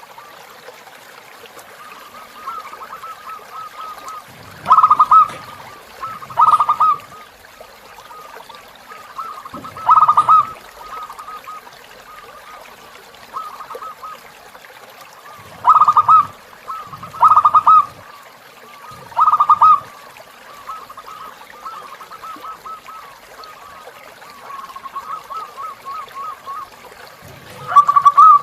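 Zebra dove (perkutut) cooing: a near-continuous run of quick, soft coos, with six louder cooing phrases spread through, over a faint steady hiss of flowing river water.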